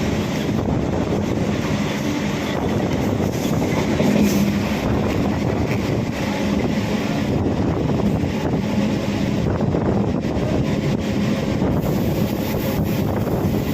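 Electric multiple-unit (EMU) suburban train running along the line: a steady rumble of wheels on rail with a low hum, and wind blowing on the microphone.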